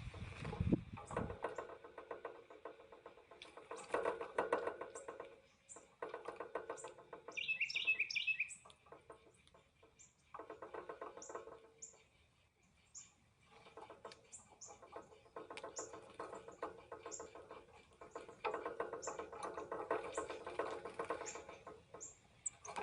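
Birds at a feeder: repeated bouts of rapid, buzzy chattering a second or two long, with short high chirps in between and a brief higher trill about eight seconds in.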